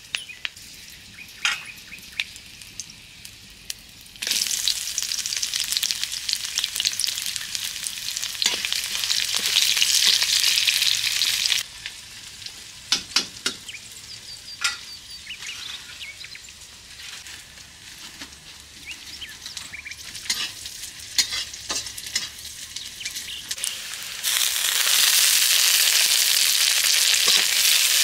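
Sliced onions, then tomatoes and green chillies, frying in hot oil in a metal kadhai, stirred with a flat metal spatula that clicks and scrapes against the pan. A loud sizzle starts suddenly about four seconds in and cuts off about halfway. Quieter frying with spatula scrapes follows, then the loud sizzle returns a few seconds before the end.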